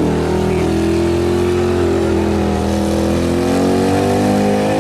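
Engine of a modified pulling lawn tractor running at a steady, fairly low speed, its pitch rising slowly and gently over a few seconds.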